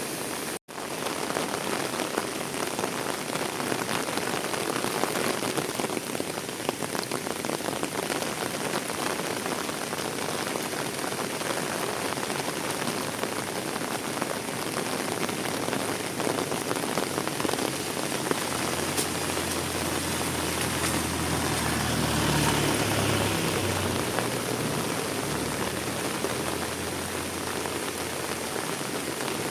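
Steady heavy rain falling on surfaces, as an even hiss. About two-thirds of the way through, a low rumble swells under the rain and fades again near the end.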